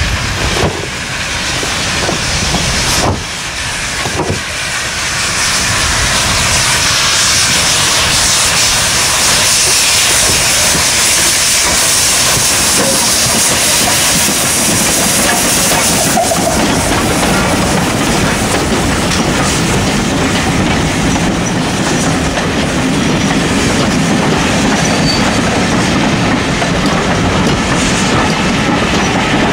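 Steam-hauled train running on rails, with a steady rumble and the clickety-clack of carriage wheels that grows louder over the first few seconds. A strong hiss of steam lies over the first half and fades about halfway through.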